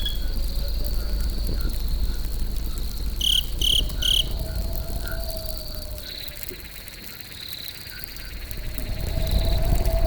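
Crickets trilling steadily over a campfire's low rumble and faint crackle, with three quick bright chirps about three and a half seconds in. The rumble drops off for a few seconds past the middle, then swells back.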